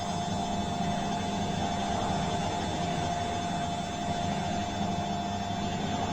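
Bosch washing machine running: a steady motor hum with a constant whine over it.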